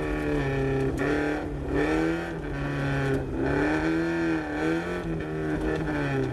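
Car engine heard from inside the cabin during an autocross run, its note rising and falling several times as the driver accelerates and lifts through the cones, with brief drops where the throttle comes off.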